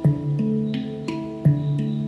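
Handpan played in a slow meditative pattern: about five notes struck in two seconds, each ringing on and overlapping the next, the deepest note struck hardest at the start and again about a second and a half in.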